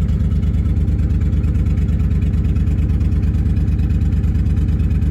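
1987 Dodge Dakota derby truck's engine running steadily, with an even, rapid pulse and a strong low drone.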